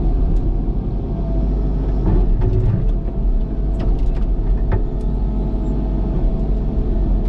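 Cat excavator's diesel engine running steadily, with a few sharp knocks and scrapes about two to five seconds in as the bucket works a loose rock free.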